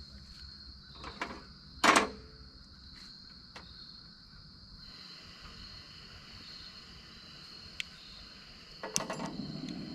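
Crickets chirping steadily in the background, with a few light clicks and knocks of handled camp gear, the loudest about two seconds in. Near the end a duller rustling noise comes up.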